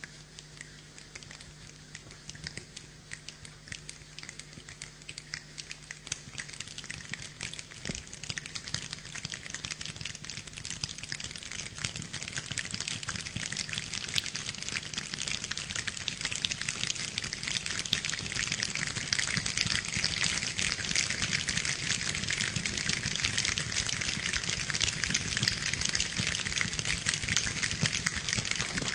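A group of people imitating rainfall: a dense patter of many small clicks that grows steadily louder, like a shower getting heavier.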